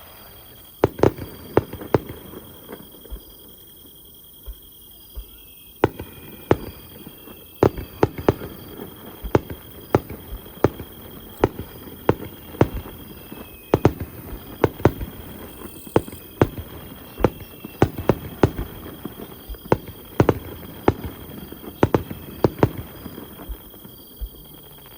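Aerial fireworks bursting in quick, irregular succession: dozens of sharp bangs over a low background rumble. A short lull of a few seconds follows the first bangs, then they come thick and fast.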